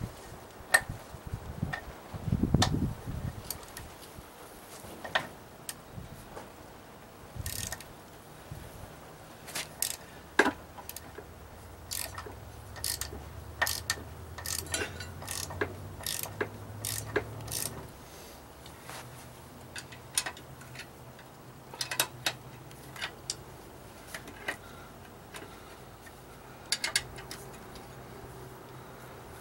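Hand tools working on an outboard motor's lower unit: irregular metallic clicks and knocks, with short runs of ratchet-wrench clicking, as bolts are loosened to drop the foot off.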